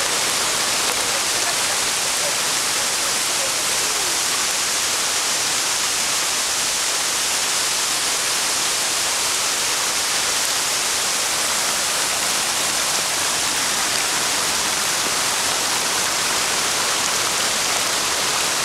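Waterfall rushing, a loud, steady hiss of falling water that does not change.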